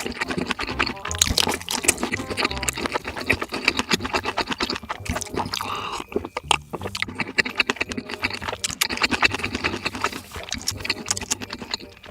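Close-miked wet slurping and chewing of noodles, a dense run of quick smacks, over background music.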